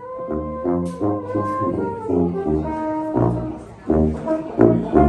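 Live band playing an instrumental passage: melody notes held and changing over a bass line.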